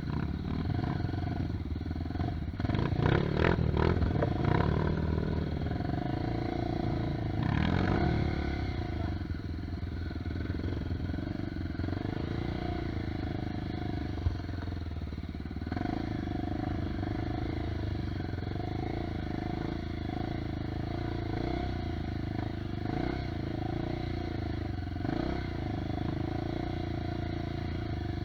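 Off-road trail motorcycle engine running under way, with a few louder revs rising and falling in the first eight seconds, then a steadier drone.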